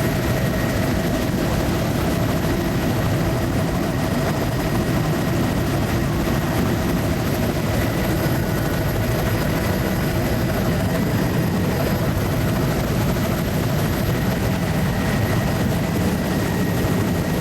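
Steady engine and airscrew noise of a low-flying survey aircraft in cruise, heard from inside its cabin: an even, unbroken drone, heaviest in the low end, with a few faint steady tones over it.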